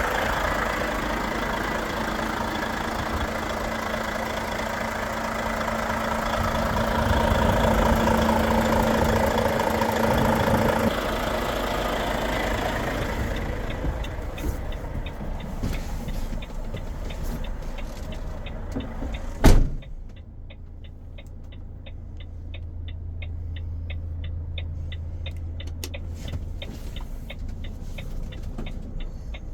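Volvo FH 460's 13-litre six-cylinder diesel engine running, loud for the first ten seconds or so and then quieter. From about halfway through, a steady run of evenly spaced ticks sounds over the low engine hum, with one sharp loud knock about two-thirds of the way in.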